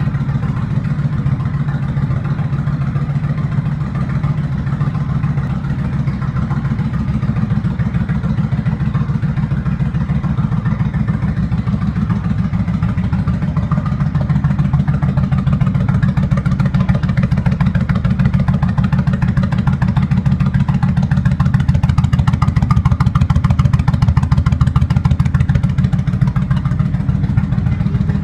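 Kawasaki Vulcan VN1500 V-twin motorcycle engine running steadily, a little louder from about halfway through.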